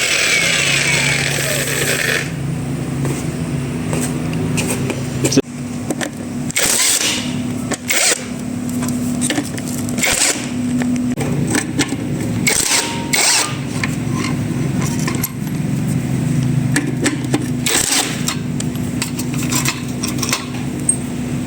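A power tool's high whine cuts off about two seconds in. After that a steady low mechanical hum runs on, with scattered clicks and knocks of hand work.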